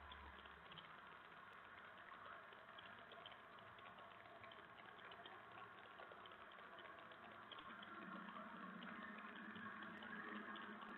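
Near silence: a faint steady hiss with scattered faint ticks, and a faint low hum that comes in about eight seconds in.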